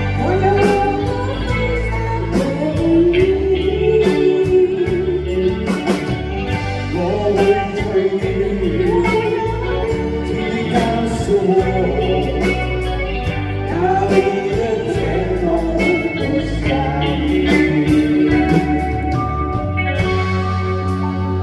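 A song sung live over instrumental accompaniment with a steady beat; the voice drops out near the end, leaving the accompaniment playing.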